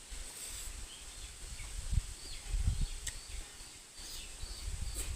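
Outdoor background with several short, faint bird chirps, mixed with a few sharp clicks and low thumps.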